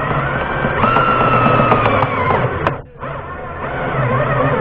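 Cordless drill-driver running in two bursts, its motor whine dropping slightly in pitch under load, with a short pause about three seconds in.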